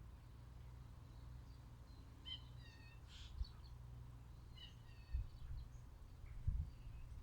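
Small garden birds giving short high chirps in two quick bouts, over a steady low rumble. A few dull low thumps are the loudest sounds, the biggest one near the end.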